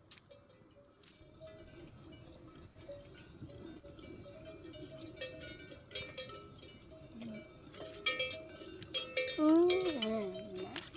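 Bells on grazing livestock clinking and ringing unevenly, and a single bleat from an animal of the flock about nine seconds in.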